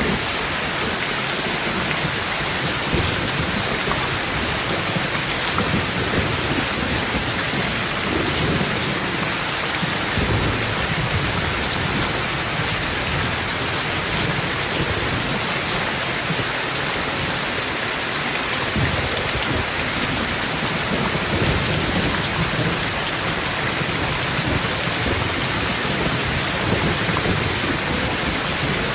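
Heavy rain falling steadily, with low rolls of thunder rumbling up several times.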